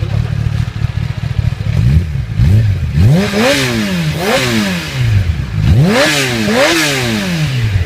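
Kawasaki Ninja ZX-10R inline-four with its factory exhaust, blipped twice lightly from idle and then revved hard four times in two pairs, each rev climbing quickly and falling back before it settles to idle.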